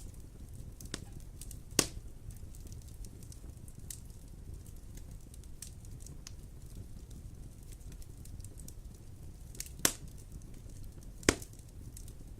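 Wood fire burning in a fireplace: a steady low rumble with scattered small crackles and three loud, sharp pops, about two seconds in and twice near the end.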